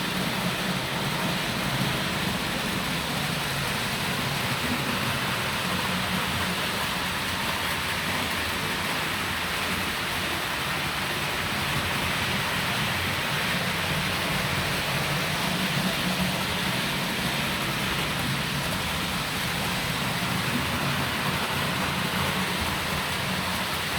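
Roco HO-scale model of the NS 1753 electric locomotive running along the layout's track. It makes a steady rolling hiss with a low motor hum that swells and fades slightly.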